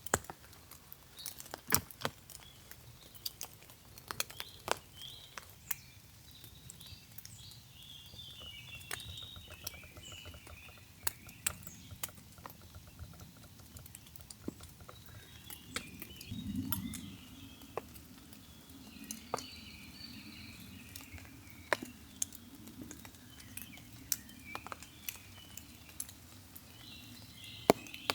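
Scattered drops of rain tapping on a tarp, with small birds chirping on and off.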